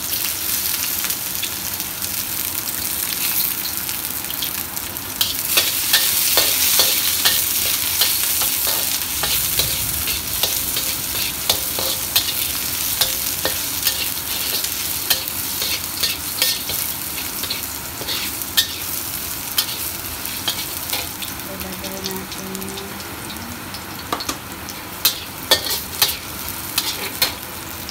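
Sliced garlic sizzling in hot oil in a wok, with a metal wok spatula scraping and clinking against the pan as it is stirred. The sizzle gets louder about five seconds in, and a run of sharper clinks comes near the end.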